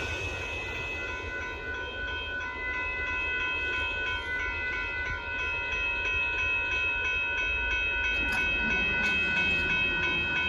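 Amtrak passenger train rolling past a road grade crossing: a steady rumble of wheels on rail, with the crossing bell ringing in a rapid, even repeat throughout.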